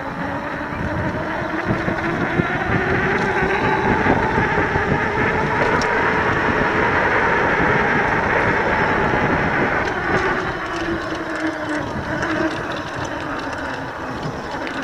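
EGO Seagull 500W 48V e-bike motor whining under hard load up a steep climb, over tyre and wind rumble. The whine slowly rises in pitch and loudness over the first few seconds, then sinks again near the end as the hill bites.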